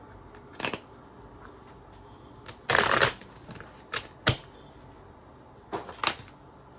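Tarot cards being handled on a table: a short shuffle of about half a second near the middle, with several sharp card snaps and taps before and after it.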